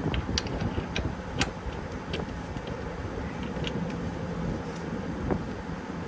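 Steady low machine hum with scattered sharp clicks and ticks, a couple of them standing out, about one and a half and five and a half seconds in.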